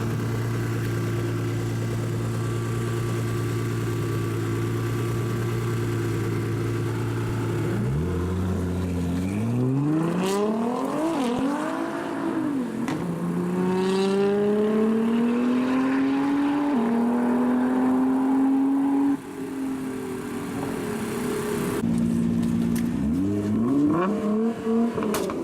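Sports car engine idling steadily, then about eight seconds in accelerating hard: the revs climb, drop sharply at quick upshifts and climb again, until the throttle is lifted a few seconds before the end, the engine settles back to idle, then revs rise once more.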